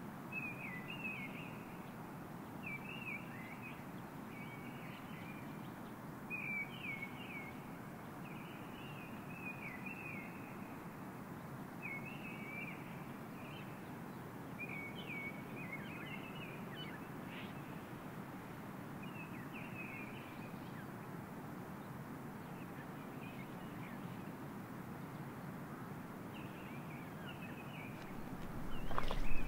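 A bird calling in short chirping phrases, repeated about once a second and pausing for a few seconds in the latter part, over a steady low background rush. Near the end louder footsteps through the bog vegetation begin.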